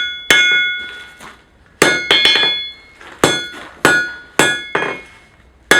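Hammer blows on a steel anvil, forging a hot horseshoe: about seven sharp, ringing strikes at an uneven pace, each ringing briefly before the next.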